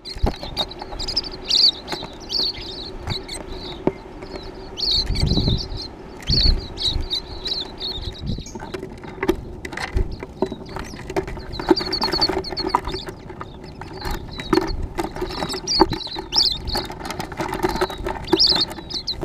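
Small birds at a feeder chirping in quick repeated bursts, mixed with many sharp clicks and taps and a few low thumps.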